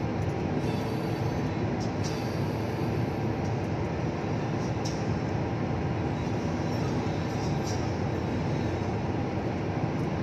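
Steady rumble of a moving vehicle on a highway: engine and tyre noise with a faint constant hum.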